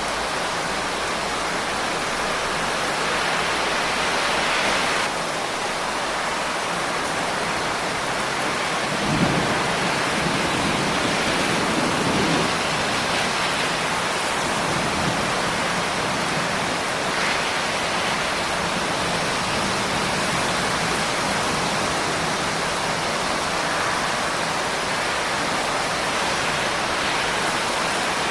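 Steady rain, an even hiss of falling drops. About nine seconds in, a brief low rumble starts with a sudden jump and fades over a few seconds.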